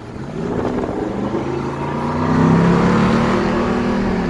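Car engine and road noise growing louder as the car accelerates, with the engine's pitch slowly rising.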